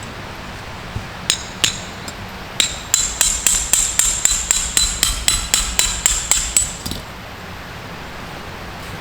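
A hammer striking metal, most likely driving a steel tent stake: two single blows, then a steady run of about fifteen quick ringing strikes, three or four a second, that stops about seven seconds in.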